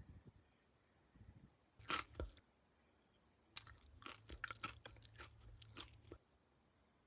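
Crunchy cheese gyoza with wonton-wrapper skins and a crisp fried-cheese crust, bitten with a sharp crunch about two seconds in, then chewed with a run of crisp crackles for a few seconds.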